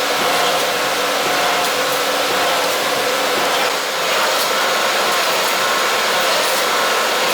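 Heavy industrial machine tool running, a steady mechanical hiss with a few faint steady tones and small ticks.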